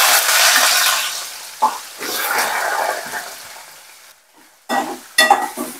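Shallots and garlic sizzling loudly in hot oil in a kadai just after being added, settling down over a second or so, then a second swell of sizzling about two seconds in that fades away. A few short, sharper sounds come near the end.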